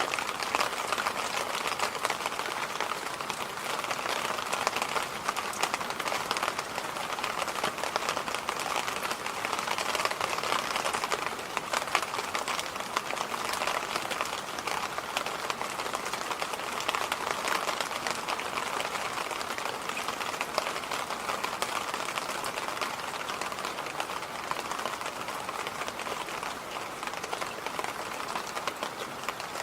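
Electric fan running steadily: an even rushing air noise with a fine crackle in it.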